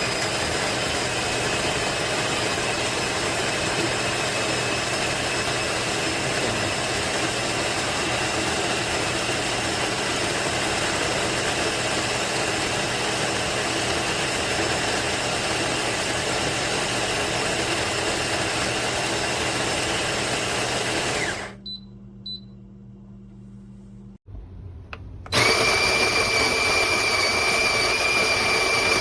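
Electric coffee grinder motor running steadily as it grinds beans, then stopping about 21 seconds in. Two short high beeps follow. A few seconds later a louder motor starts with a steady high whine.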